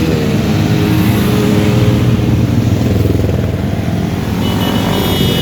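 Motorcycle engines running in a loud, continuous low drone, their pitch shifting as the bikes ride in a caravan. A high steady tone comes in near the end.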